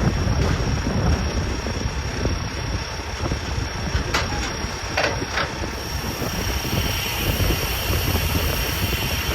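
Steady low rumble of a heavy vehicle running, with a few short high squeals about four to five seconds in.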